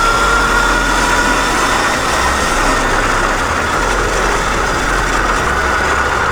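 Dirt bike engine running at a steady, moderate throttle while riding, its pitch drifting only slightly.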